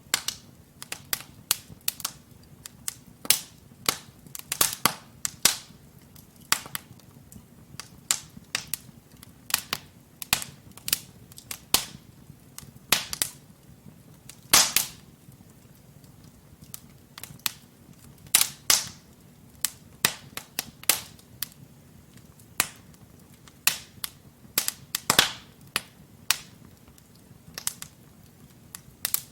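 Wood fire in a fireplace crackling, with sharp irregular pops from the burning logs over a low steady hiss; the loudest pops come about halfway through and again a few seconds later.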